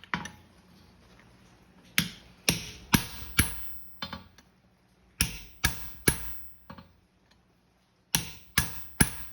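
Hand hammer striking a punch to open the nail holes in a hot steel horseshoe on the anvil, in groups of three or four sharp blows about half a second apart, each with a short metallic ring.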